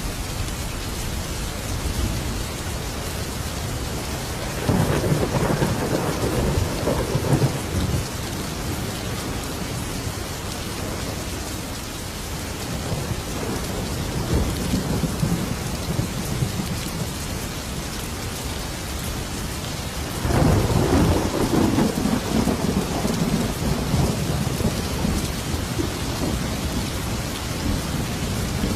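Thunderstorm: steady heavy rain, with two long rolls of thunder rumbling through it, one about five seconds in and a longer one about twenty seconds in.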